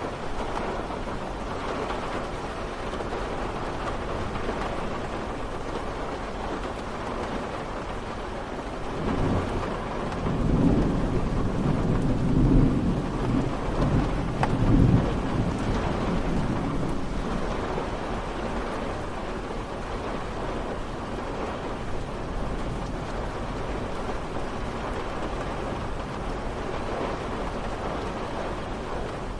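Steady rain falling, with a long roll of thunder rumbling in about a third of the way through, swelling twice and fading out a little past the middle.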